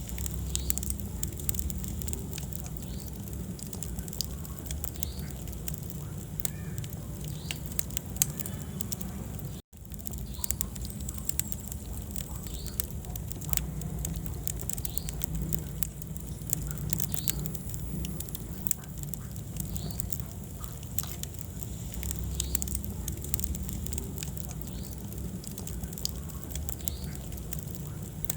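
Wood fire burning in a fireplace: a steady low rush of flame with frequent sharp crackles and pops. The sound cuts out for an instant about ten seconds in.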